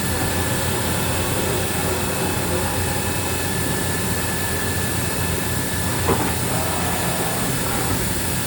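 Kitamura 4XI vertical machining center running under power: a steady hum and hiss with a faint high whine, and a single short knock about six seconds in.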